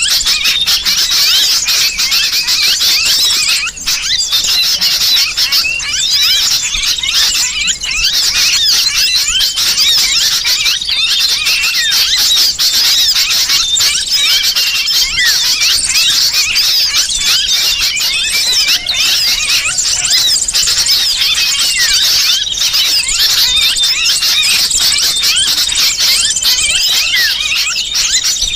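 Bird-trapping lure recording: an unbroken, dense chatter of many small birds, high-pitched chirps and squeals overlapping with no pauses, mixed with the distress calls of a sooty-headed bulbul (kutilang) that is being held or pinched.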